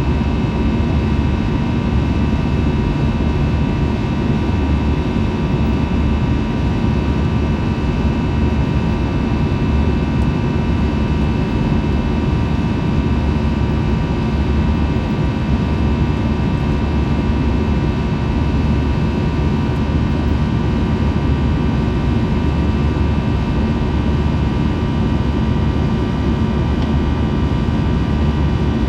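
Steady jet engine and airflow noise inside the cabin of an Airbus A321 airliner: an even rushing roar with a constant whine of several tones over it.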